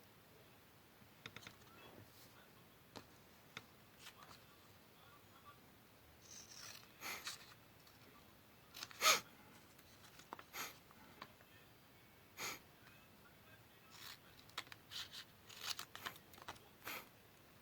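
Scattered small rustles and clicks of paper and craft tools being handled at a work surface, the loudest a brief scrape about nine seconds in.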